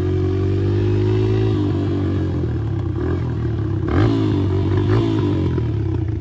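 Dirt bike engine running while riding off, its pitch rising slightly for the first second and a half, then wavering with throttle changes, with a quick rev about four seconds in.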